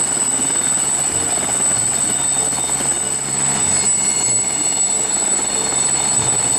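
Helicopter sound effect: a steady rotor-and-engine sound with a constant high-pitched whine over it.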